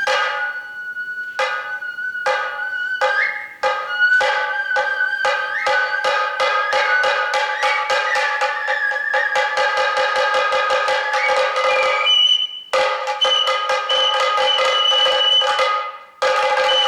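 Sato kagura accompaniment: drum strokes that speed up from about one a second to a rapid roll, under a high bamboo flute melody rising in steps. The music drops out briefly twice near the end.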